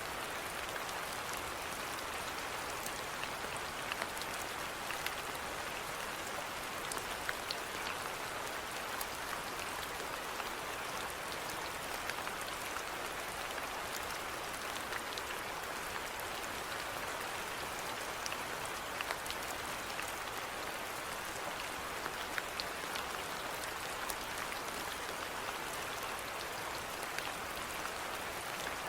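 Steady rainfall with many close raindrops pattering on a surface, an even hiss dotted with small individual drop hits.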